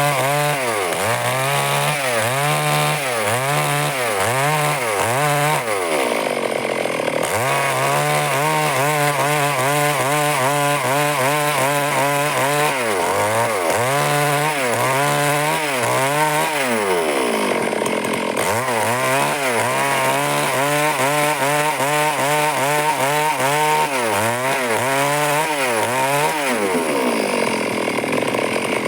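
Stihl chainsaw running under load while cutting wood, its engine note dipping and recovering again and again as the chain bites into the cut and frees up. Three times the pitch sags deeper for about a second before coming back up.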